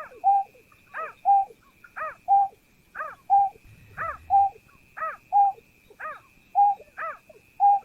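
Greater painted-snipe calling: a two-part call, a falling note followed by a short level hoot, repeated very evenly about once a second, over a faint steady high whine.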